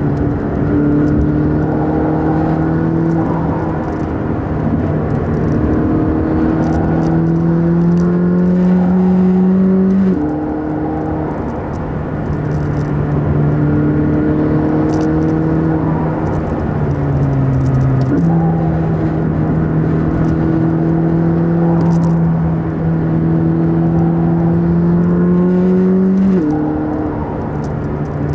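McLaren 600LT's twin-turbo V8, heard from inside the cabin, pulling steadily through the gears on a winding road. Its pitch climbs slowly in each gear and drops sharply at each gear change; one sharp jump up about 18 seconds in marks a downshift.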